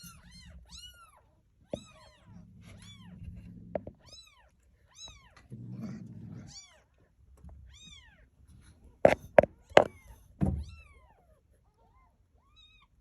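Kittens mewing over and over in short, high, thin cries about twice a second, with a few sharp knocks about nine seconds in.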